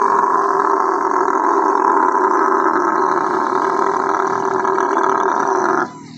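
A dromedary camel giving one long, loud, rough call of nearly six seconds that stops abruptly near the end: the distress crying of a camel being loaded into a truck.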